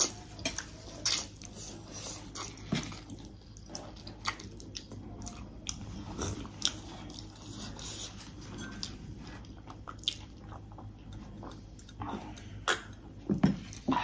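A person chewing and biting into food during a mukbang, with irregular short clicks and smacks of the mouth.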